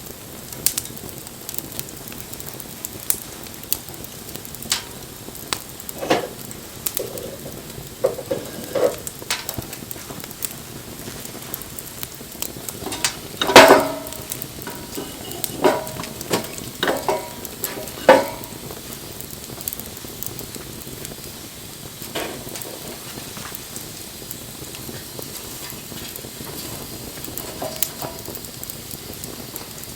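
Wood fire burning with a steady hiss and frequent sharp crackles and pops. A cluster of louder cracks comes about halfway through, the loudest first.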